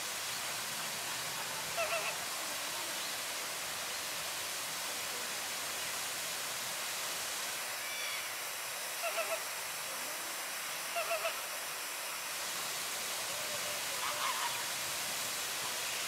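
Steady rushing background noise, with short bursts of three quick pitched bird calls about two seconds in and twice more later, and another call near the end.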